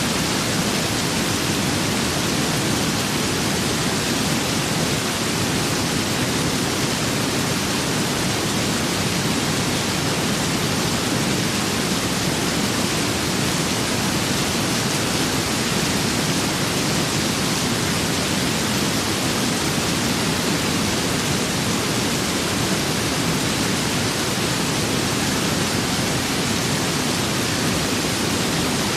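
Steady rain with wind, an even, unbroken hiss with no separate drops, gusts or thunder standing out.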